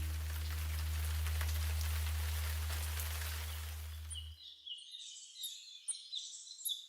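A low held music note with a hiss fades out and cuts off about four seconds in. Birds then chirp in quick, high, repeated calls.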